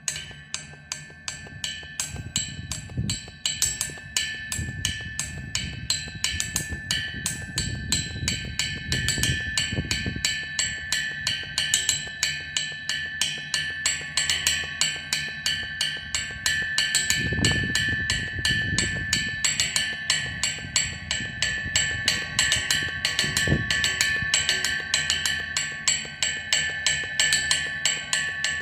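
Drums played with quick, even strokes in a steady rhythm, with a sharp, woody crack to each hit and a ringing overtone underneath. The playing grows louder over the first dozen seconds, then holds.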